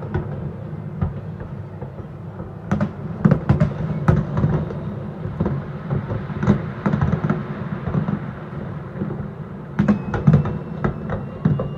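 Fireworks bursting at a distance: sharp bangs and crackles over a steady low rumble, in clusters about three seconds in and again near the end.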